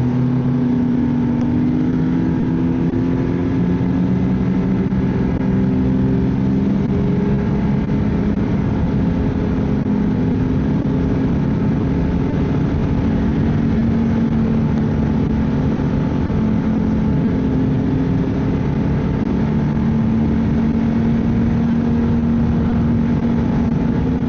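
Ski-Doo snowmobile engine running steadily at trail-riding speed, its pitch holding nearly level with small rises and dips as the throttle shifts.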